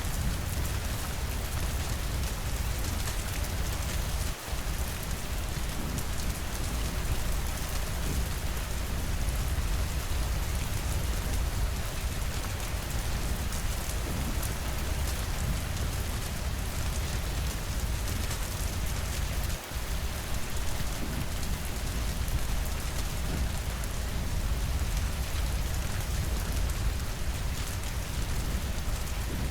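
Steady rainfall, dense and even, with a low rumble underneath. The sound dips for an instant twice, about four seconds in and again near twenty seconds.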